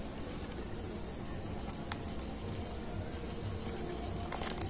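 Short, high chirps of a small bird, falling in pitch, a few times, over a steady low rumble with a few faint clicks.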